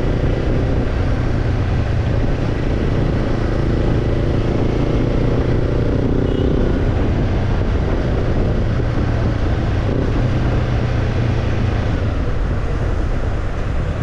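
Kawasaki Ninja 250 parallel-twin engine running steadily through a BEET NASSERT Evolution Type II titanium slip-on muffler, with a steady rushing noise beneath it.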